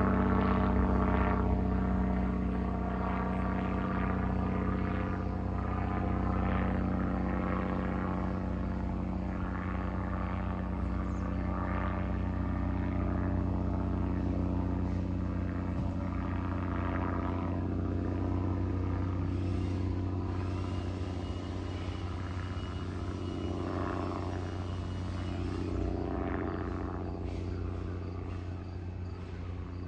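Cessna 305A banner-towing plane's propeller engine droning steadily overhead, slowly fading as it flies away.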